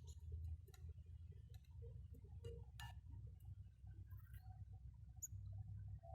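Faint scattered clicks and a few brief high chirps from small birds, over a steady low rumble.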